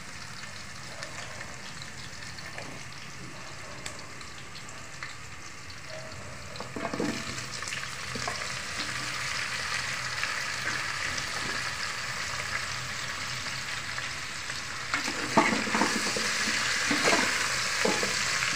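Chopped vegetables sizzling in oil in an aluminium pot. About seven seconds in, raw chicken feet go into the pot and the sizzle gets louder. Near the end a metal ladle stirs them, knocking and scraping against the pot.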